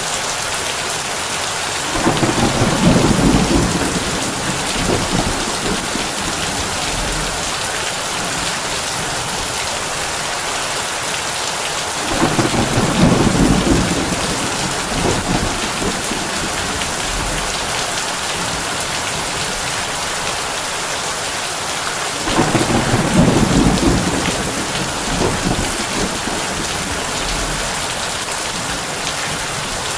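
Heavy rain beating on a tin roof as a steady hiss. Thunder rumbles three times, about ten seconds apart, each roll lasting a few seconds.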